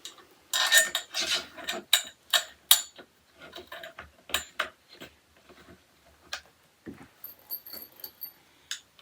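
Metal parts of a flat-pack storage rack clinking and knocking as they are handled and fitted together, a rapid cluster of clanks about half a second in and scattered knocks after, with a short high metallic jingle near the end.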